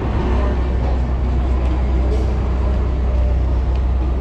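Steady low rumble of city street traffic and riding noise heard from a moving bicycle.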